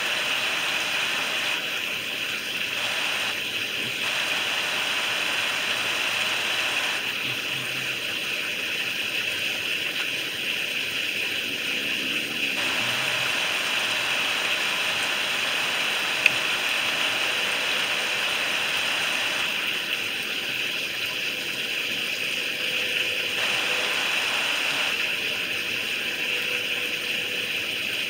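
Steady rain falling, an even hiss of many drops. One sharp click about halfway through.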